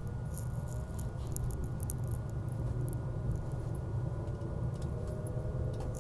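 Cabin noise of an E259-series electric train under way: a steady low rumble with small clicks and rattles, and a faint whine rising in pitch near the end.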